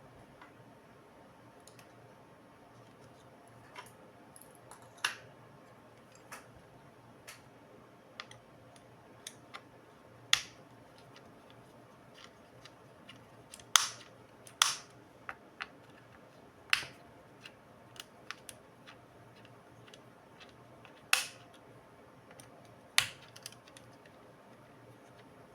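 Irregular sharp clicks and taps of small tools and plastic parts being handled as a Dell Inspiron 15 5567 laptop is taken apart, a louder click every second or two among fainter ones.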